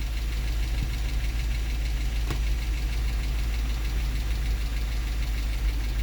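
2007 Infiniti G35's 3.5-litre V6 idling steadily with a fine, even ticking, which the mechanic puts down to lifter noise. A single sharp click about two seconds in.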